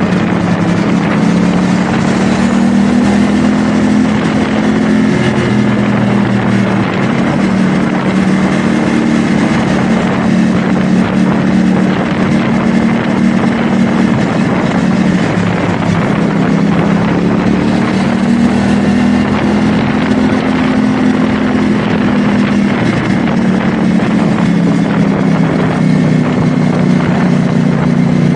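CFMoto 450SR S motorcycle's parallel-twin engine running under way at fairly steady revs that drift up and down, easing off briefly about halfway through, with wind rushing over the microphone.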